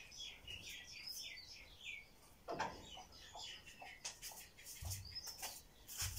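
Small birds chirping: a quick run of short, falling chirps for the first two seconds, then a few scattered clicks and taps.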